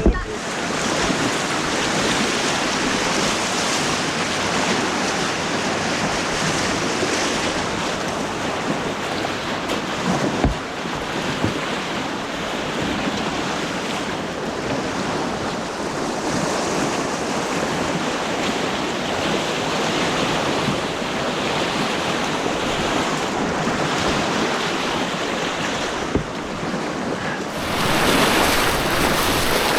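Rushing white water on an artificial whitewater course, a steady churning noise that grows louder and brighter near the end, with a single sharp knock about ten seconds in.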